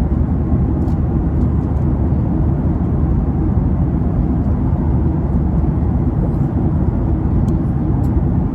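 Steady, loud, deep rumble of an airliner cabin in flight: engine and airflow noise.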